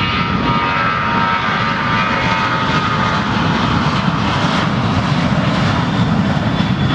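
Airliner's engines at takeoff power during the takeoff roll: a loud, steady engine noise with thin whining tones that drift slightly lower over the first few seconds.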